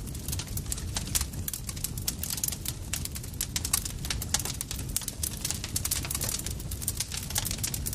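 Campfire crackling: dense, irregular snaps and pops over a steady low rumble of the fire.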